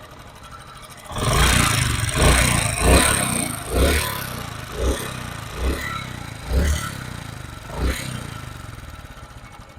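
Honda CD 70 motorcycle's single-cylinder four-stroke engine revved in a series of short throttle blips, about seven over several seconds, with a clattering engine noise that the mechanic puts down to worn tappet adjusting screws.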